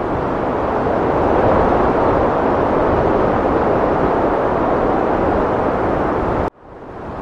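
Heavy wind blowing as a steady, loud rush. About six and a half seconds in it cuts out abruptly and fades back in, the seam where the looped wind recording starts over.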